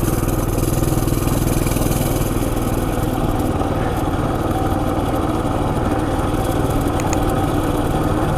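Coleman CT200U EX mini bike's single-cylinder four-stroke engine running steadily under way, an even, unbroken engine note.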